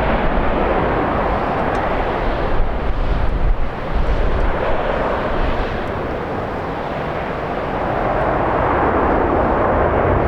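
Jet airliner engines, a steady rushing noise that eases a little partway through and then swells again, mixed with heavy gusting wind rumbling on the microphone.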